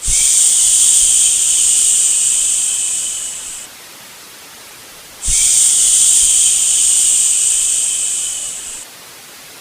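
Two long drawn-out "shhh" shushes, each about three and a half seconds long, starting abruptly and tapering off at the end, with a pause of about a second and a half between them. A fainter steady hiss runs underneath.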